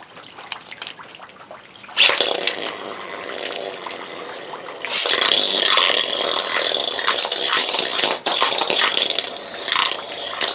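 Beyblade spinning tops launched one after the other, the first about two seconds in and the second about five seconds in, then spinning and clashing together in a plastic stadium. A steady hiss with rapid clicking and clattering from their hits.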